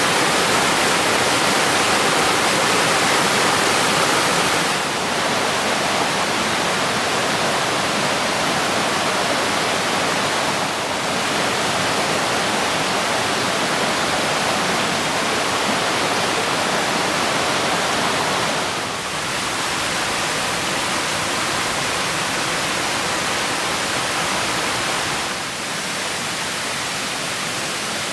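Stream water rushing in a steady hiss, stepping slightly quieter a few times.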